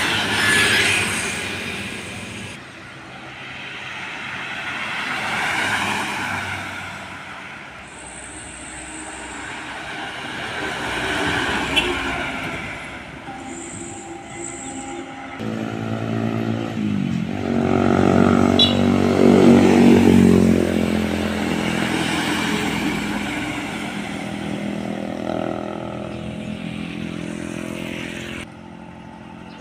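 Heavy trucks and buses driving past one after another, each engine swelling and fading as it passes, with abrupt jumps between pass-bys. The loudest is a diesel engine pulling past about two-thirds of the way through.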